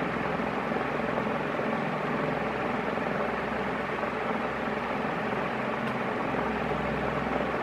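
36-inch Gulf Coast/Commander industrial ceiling fan running steadily on speed 2 of its five-speed solid-state control, a constant rush of moving air with no change in speed.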